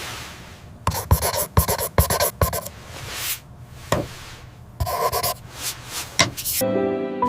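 Pen scratching on paper in two short spells of quick strokes.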